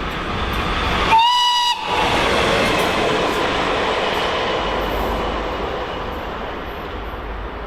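Train passing on the line, its rolling rail noise building and then slowly fading, with one short horn blast about a second in.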